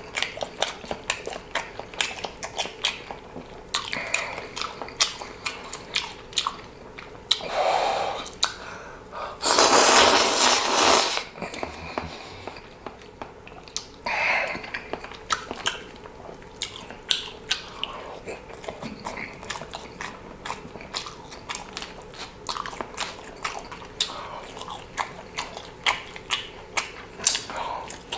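Close-miked chewing and biting of food, with many small wet clicks and smacks. About ten seconds in, a loud rushing sound lasts about two seconds.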